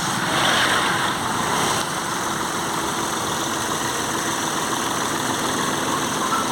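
Vehicle engine idling steadily, running while it gets an engine carbon-cleaning (decarbonising) treatment.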